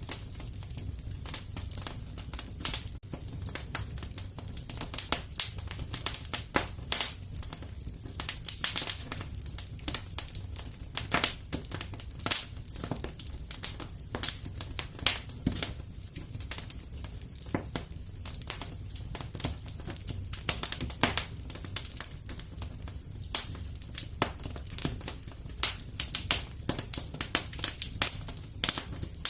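Wood fire crackling and popping in a fireplace: irregular sharp snaps several times a second over a steady low rumble of the flames.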